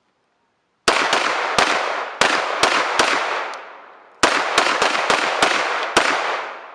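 Firearm shooting rapid strings of single shots, each crack ringing out in a long echo. The first string of about six shots starts about a second in. After a short pause near four seconds, a second string of about six follows.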